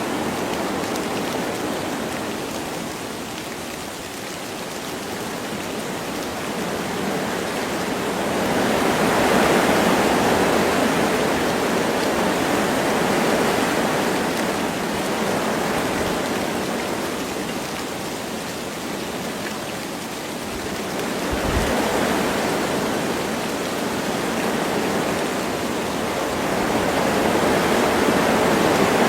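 Wind blowing through forest trees with light rain falling, a steady rushing that swells and eases in slow gusts.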